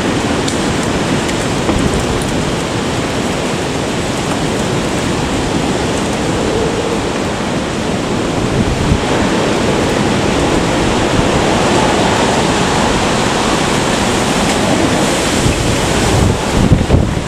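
Typhoon gale wind blowing hard and buffeting the microphone, a loud continuous rush that grows stronger and more gusty near the end.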